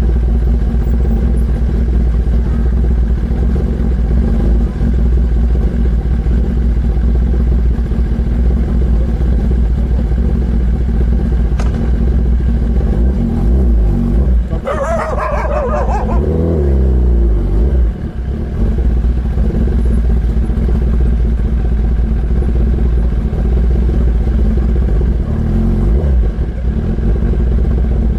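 Kawasaki ZX-10R's inline-four engine running at low speed, with one throttle blip about halfway through whose pitch rises and then falls back.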